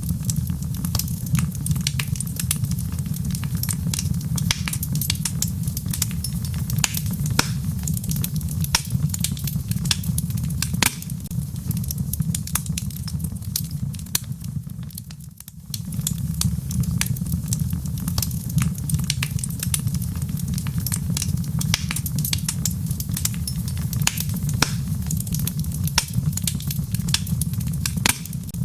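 Wood logs burning in a fireplace: a steady low rumble of flame under dense, irregular crackles and sharp pops. The fire sound fades briefly about halfway through, then picks up again.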